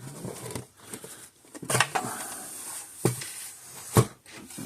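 Plastic case of a Red Snap'r fence charger being handled and pulled apart by hand: a few sharp knocks and clatters with rustling between.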